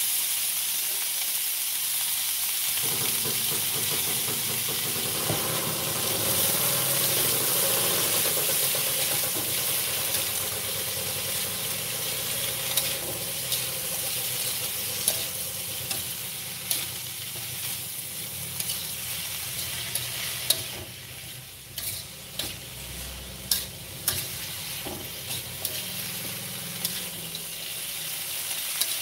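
Chopped napa cabbage sizzling as it fries in a hot metal wok, stirred with a metal spatula that scrapes and knocks against the pan. The sizzle is steady, and from about halfway through sharp spatula knocks come more often.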